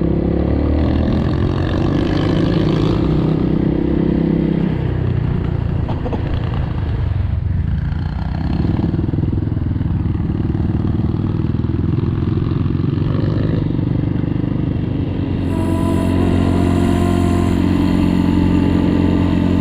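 Enduro motorcycle engine running under way, its note dropping about four seconds in and building again. Music comes in near the end.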